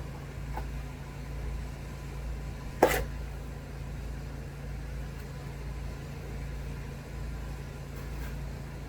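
A steady low hum, with a single sharp click about three seconds in.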